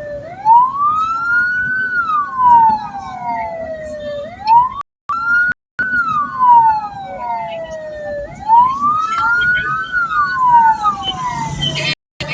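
Wailing vehicle siren on an ambulance-type funeral car, its pitch climbing quickly and then sliding slowly back down, repeating about every four seconds. The sound cuts out briefly a few times.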